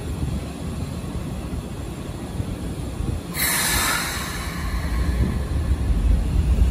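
Keikyu 1000-series electric train standing at the platform with a low rumble, then a sharp hiss of compressed air about three seconds in. The low rumble swells near the end as the train gets ready to pull away.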